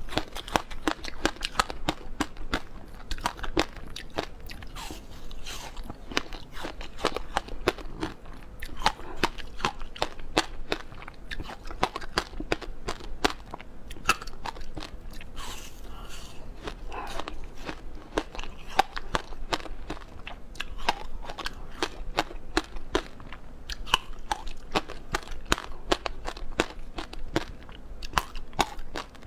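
Frozen passion fruit being bitten and chewed: a dense, irregular run of sharp icy crunches and crackles.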